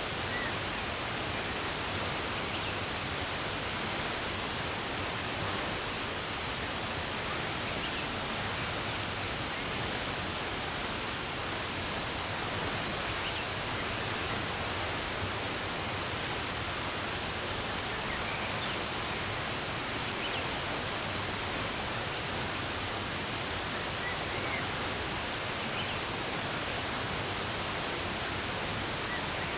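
Running water rushing steadily, with a few faint, brief bird chirps scattered over it.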